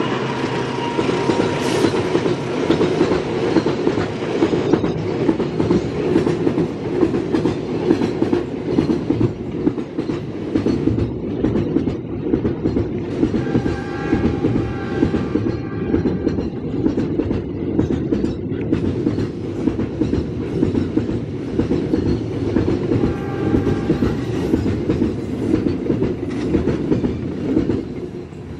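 A train rolling through the station over the junction's turnouts: a continuous rumble of wheels with fast clickety-clack over rail joints and points, easing off near the end.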